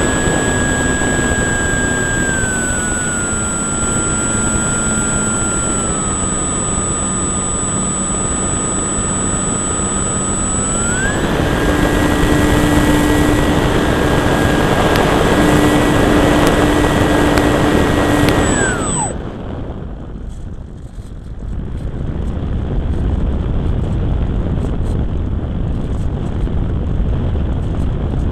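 Electric motor and propeller of a Durafly Cessna 182 RC model plane whining under wind rush on the onboard camera, the pitch easing down in steps, then climbing back up about eleven seconds in. Near two-thirds of the way through the motor spools down sharply as the throttle is cut, leaving only wind rush as the plane glides.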